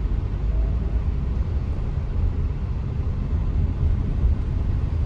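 Steady low rumble of a car driving along a city street, engine and tyre noise.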